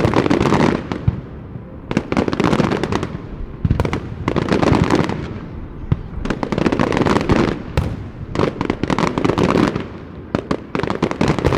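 Aerial firework shells bursting in rapid volleys: dense booms and sharp cracks that come in waves about every one to two seconds.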